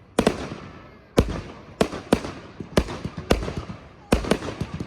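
Fireworks bursting overhead: a rapid, irregular series of about nine sharp bangs, each trailing off in an echoing rumble.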